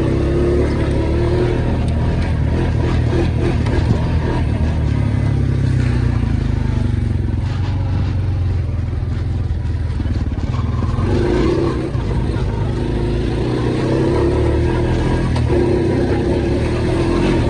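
ATV engine running under throttle while riding through mud. The revs rise and hold higher near the start and again for several seconds in the second half.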